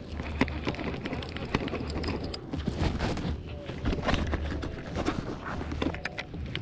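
Irregular knocks and clatter on an aluminum boat as a small, just-caught fish is handled, over a low rumble that comes and goes.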